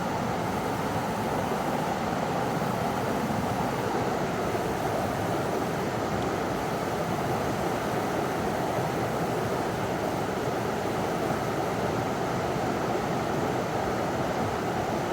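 River water rushing over a small waterfall: a steady, even roar of falling water.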